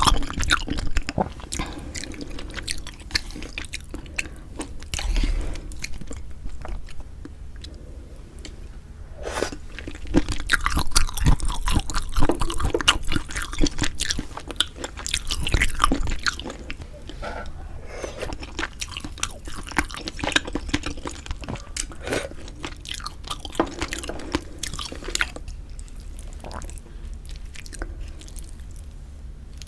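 Close-miked chewing and wet mouth sounds of someone eating pork-bone hangover soup with glass noodles. The sounds come in irregular spells and are loudest about ten to sixteen seconds in.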